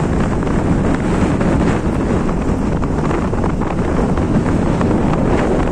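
Snowstorm wind blowing hard across the microphone: loud, steady buffeting noise, heaviest in the low end.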